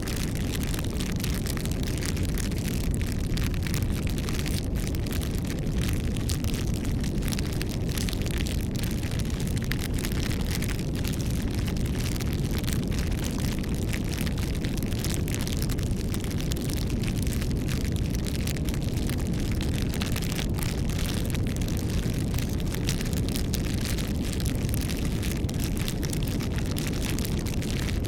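Wood campfire burning steadily: a constant low rumble of the flames with dense small crackles and pops throughout.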